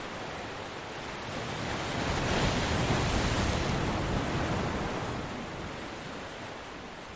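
Ocean waves breaking on a beach: a wave builds about a second and a half in, crashes in a loud surge of surf, then washes out and fades away.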